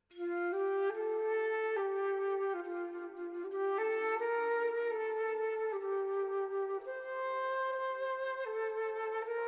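Solo flute playing a slow, calm melody of held notes that step up and down, with the background music starting right at the beginning.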